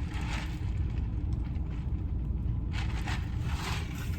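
Steady low vehicle rumble, with a few brief soft scraping noises on top.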